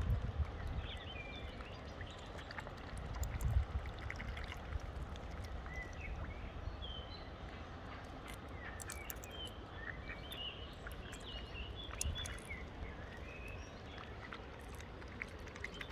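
Birds calling in many short, high chirps scattered throughout, over wind rumbling on the microphone that gusts at the very start and again about three and a half seconds in.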